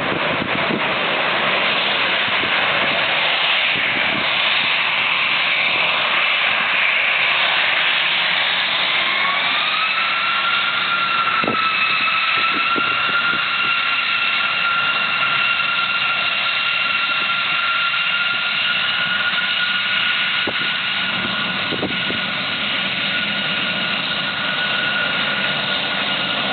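Airbus A320 airliner's jet engines running loudly during its landing, a whine rising in pitch about ten seconds in and then holding steady.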